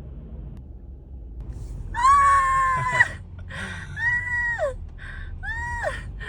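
Three high, drawn-out whining calls from an animal, the first the longest and loudest. Each holds its pitch and then drops off at the end.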